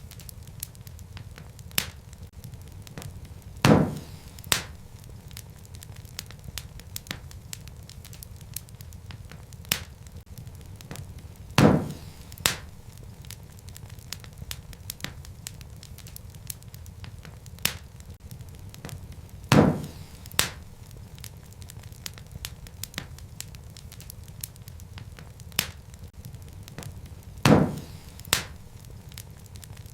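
Wood fire crackling: many small clicks and snaps over a low steady rumble, with a louder pop about every eight seconds, each followed by a smaller one under a second later.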